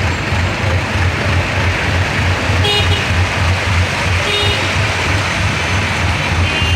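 Rainy city street traffic: a steady wash of rain and water noise over a low engine rumble, with short vehicle horn toots about two and a half seconds in and again about four and a half seconds in.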